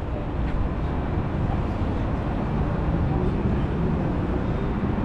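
Steady low rumble of outdoor city street ambience with traffic noise.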